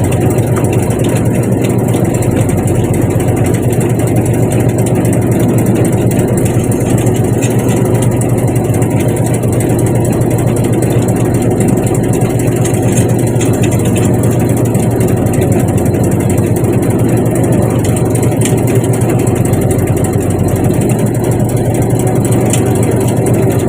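Fishing boat's inboard engine running steadily, a loud, even low hum.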